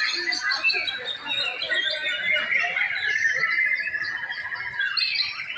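Caged white-rumped shamas (murai batu) singing over one another in rich whistled phrases, with a fast trill running through the second half.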